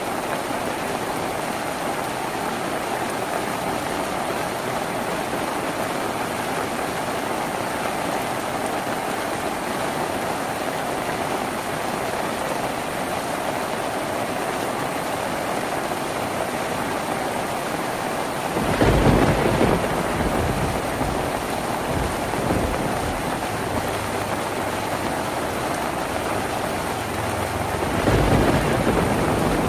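Steady rain drumming on a tin roof. About two-thirds of the way through a deep rumble swells up and fades, and another comes near the end.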